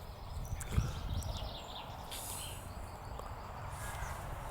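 Wind rumbling on the microphone at an open-air cricket ground, with birds calling faintly and a single thump just under a second in.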